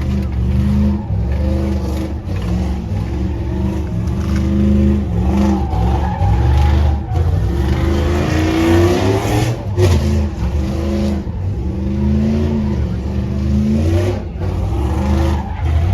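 Vehicle engines revving, one rising sharply in pitch about halfway through.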